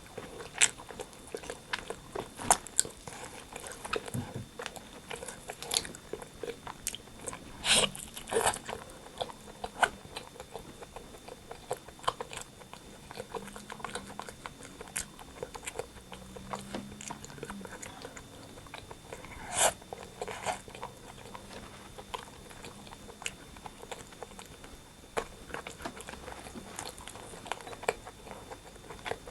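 Close-miked eating sounds of rotisserie chicken being bitten and chewed: irregular sharp crunches and clicks, with the loudest bites about 8 and 20 seconds in.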